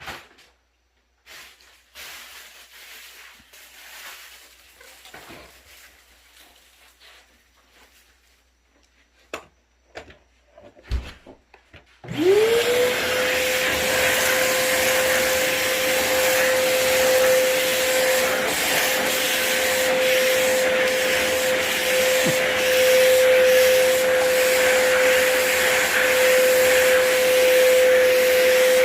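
Faint knocks and rustles, then a vacuum cleaner is switched on about twelve seconds in. Its motor whine rises quickly to a steady pitch, and it runs steadily and loudly after that.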